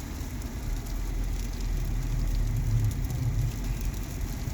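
Car engine running with a steady low rumble, heard from inside the car as it pulls up slowly.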